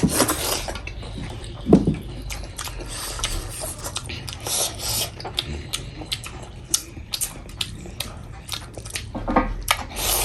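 Close-miked chewing and mouth smacking of people eating chicken curry and millet dhido, with scattered small clicks of dishes and utensils.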